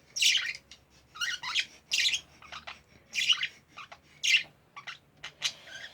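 Pet budgies (budgerigars) chattering: a run of short, high chirps and squawks coming irregularly, several to the second.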